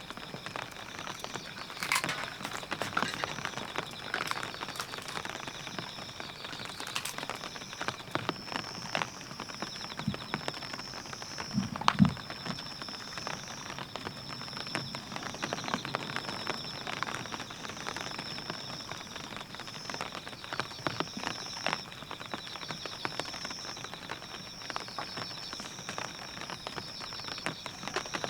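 Rain falling on a polycotton tent, a dense, irregular ticking of drops on the fabric. A high chirp repeats about once a second throughout, and a single dull thump stands out about twelve seconds in.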